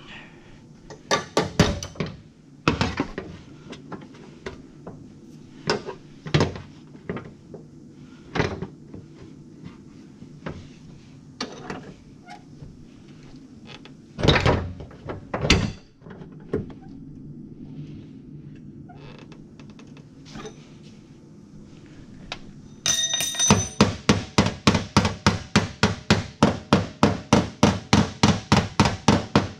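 Scattered knocks and clunks of bodywork tools on a car fender. Near the end they give way to rapid, even hammer strikes on sheet metal, about four or five a second.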